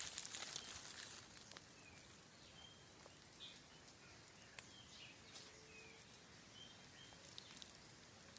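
Faint, short, high chirps from birds, scattered about once a second, over a quiet outdoor background with a few soft clicks.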